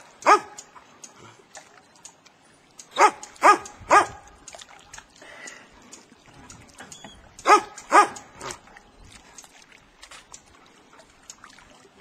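Dog barking in short volleys: one bark just after the start, three quick barks about three seconds in, and three more about seven and a half seconds in.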